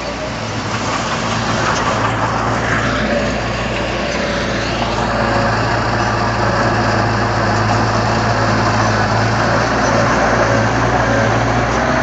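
Heavy machine's diesel engine running steadily with a low hum, growing a little louder over the first few seconds.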